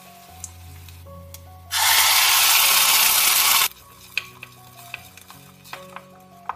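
Loud sizzle of a wet ingredient hitting hot oil in a steel pressure cooker, lasting about two seconds and cutting off suddenly. Light taps of a wooden spoon against the pot and background music around it.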